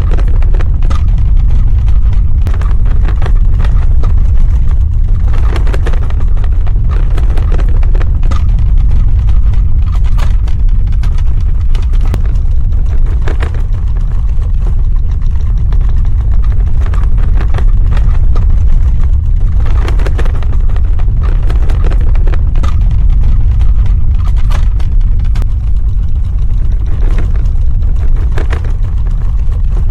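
Earthquake rumble: a steady, loud, deep rumble with scattered crackles and rattles over it.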